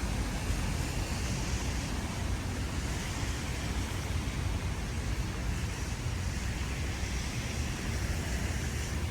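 Steady outdoor city ambience in wet weather: an even wash of noise over a low rumble, with soft hissing swells every few seconds.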